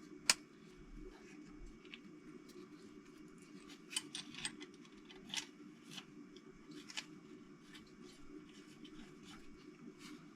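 Scattered light metallic clicks and clinks of small parts being handled and set down: camshaft bearing caps being placed on a Toyota 4A-GE cylinder head. A faint steady low hum runs underneath.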